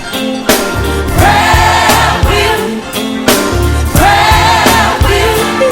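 Gospel song with group vocals held and sliding over a band with bass and a steady drum beat.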